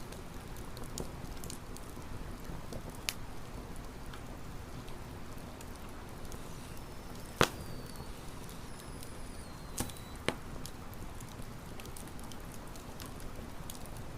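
Wood campfire burning with a steady low crackle and a few sharp pops, the loudest about seven seconds in and two more near ten seconds.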